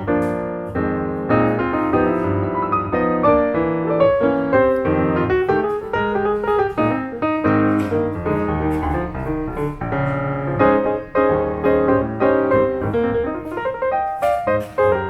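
Background music: piano playing a steady stream of notes.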